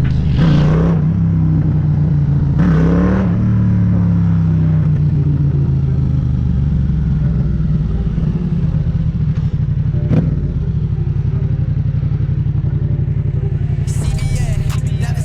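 Motorcycle engine running at steady revs, with two brief surges in engine sound, one near the start and one about three seconds in.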